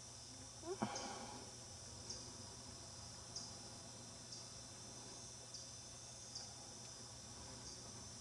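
Insects calling steadily, a high continuous buzz that swells again about once a second. A little under a second in comes a short rising note and a sharp knock, the loudest moment.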